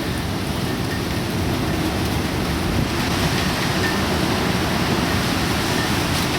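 Steady rush of typhoon wind and heavy rain, growing a little louder about three seconds in.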